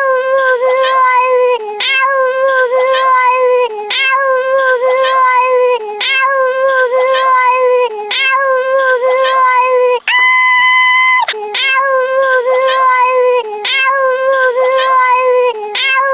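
High-pitched wailing voice making a nonsense noise, repeated almost identically about every two seconds like a loop. About ten seconds in it breaks for a steady beep-like tone lasting a little over a second, then the repeats resume.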